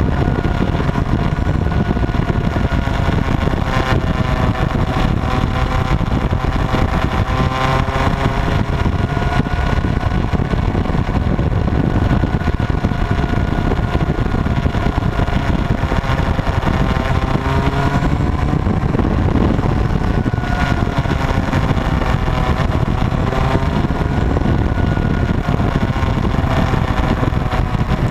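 Motorcycles riding on the road: engines running under a loud, steady rumble, their pitch slowly rising and falling as the revs change.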